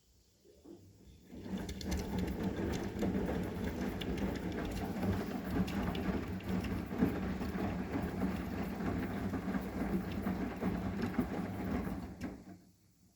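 Arçelik 9120M washing machine's drum turning during the wash, a steady motor hum with the laundry and water churning inside. It starts about a second and a half in and stops after roughly ten seconds, the usual turn-and-pause rhythm of a wash cycle.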